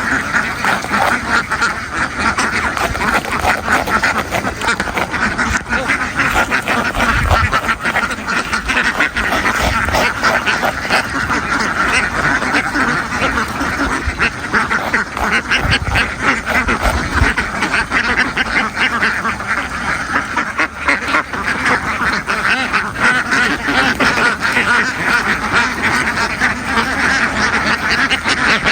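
A large flock of ducks quacking continuously, many overlapping calls forming a dense steady din, with a few low thumps in the middle.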